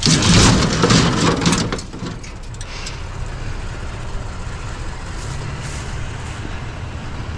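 A loud clatter lasting about two seconds, then a steady low vehicle engine rumble.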